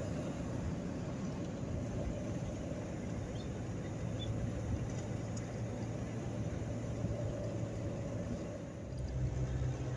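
A steady low engine rumble, its pitch shifting about four seconds in and again after a short dip near the end.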